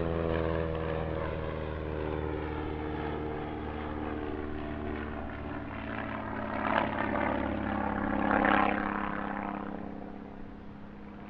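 SIAI-Marchetti SF.260 light aircraft's 260-horsepower Lycoming piston engine and propeller in display flight. Its pitch falls slowly over the first few seconds, it swells twice, then it fades near the end.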